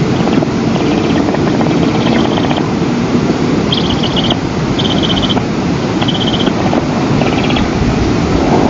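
Wind buffeting an outdoor nest-camera microphone with a steady low rumble. Short, rapidly pulsed high chirring bursts come about once a second over it.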